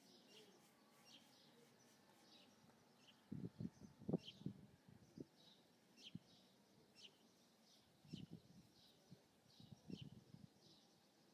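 Faint bird chirping: short, high chirps repeating about once a second. Brief low knocks or handling sounds come in a few small clusters.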